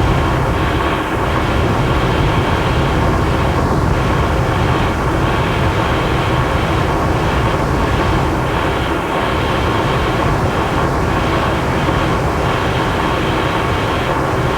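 A loud, unchanging wall of dense noise, heavy rumble underneath with a hiss on top, from a noise-music recording.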